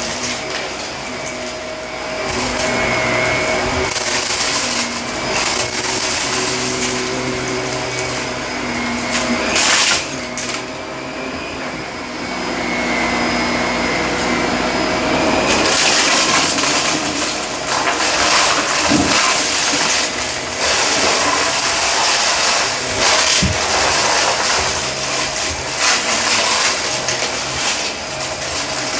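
Shark vacuum cleaner running over carpet, its motor humming steadily while it sucks up crunchy debris that crackles and rattles up the hose. The crackling hiss of pickup comes and goes with the strokes and eases off for a few seconds near the middle.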